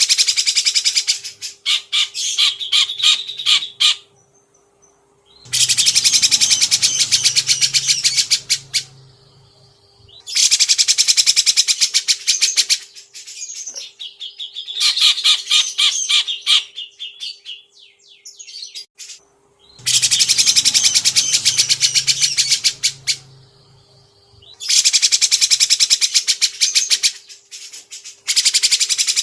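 Caged songbird singing loud, rapid, harsh chattering phrases of about three seconds each, with short pauses between them, over a faint steady hum.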